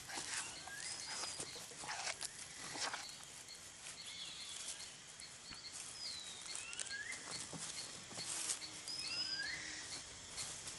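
Faint tropical forest ambience: birds calling with short whistled swoops and chirps every second or so over a soft high note repeating about twice a second, with a few scattered soft crackles.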